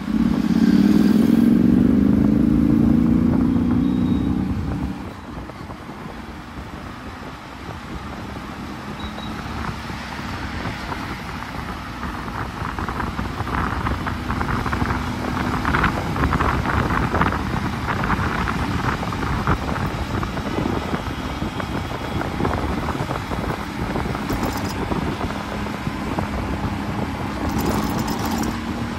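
Motorcycle engine heard from the rider's seat, accelerating with its pitch rising for the first four seconds or so, then dropping to a steady cruise under road and wind noise; near the end the engine note climbs again as it picks up speed.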